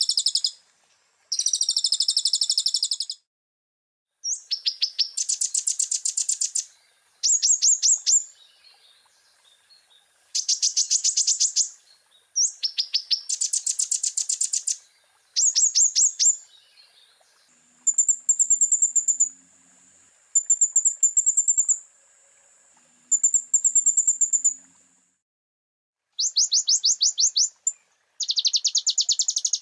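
Kolibri ninja (konin) sunbird song on a bird-training master recording: rapid, high trilled phrases of about two seconds each, one after another with short gaps, and partway through a run of short, thin high notes.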